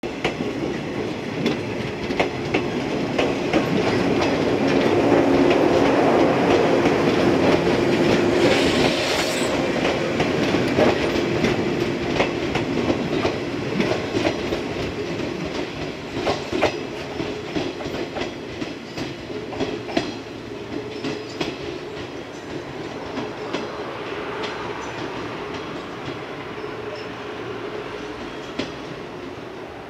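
Yellow electric multiple unit, Okayama depot set B07, passing close by. It is loudest in the first ten seconds, with its wheels clicking over the rail joints, then fades steadily as the train runs away down the line.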